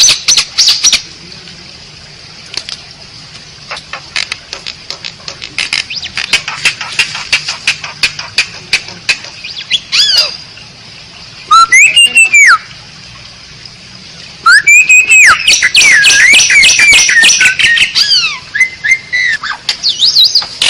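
Asian pied starling (jalak suren) singing: loud whistled and squawking phrases with sliding, rising and falling notes, broken by a long run of rapid dry clicks through the first half.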